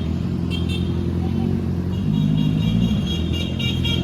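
Honda CBR650R inline-four running at idle through an aftermarket Orion dual exhaust, a steady low note that picks up briefly about two seconds in. High repeated chirping tones sound over it in the second half.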